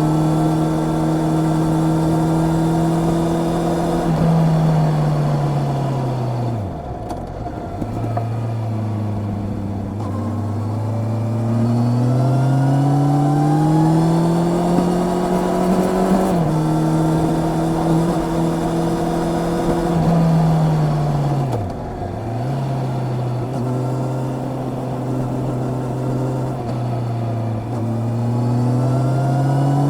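Honda CB650R inline-four engine under way: its pitch holds, falls away twice as the rider rolls off, and climbs under acceleration. Midway the pitch drops suddenly, as at a quick-shifter upshift.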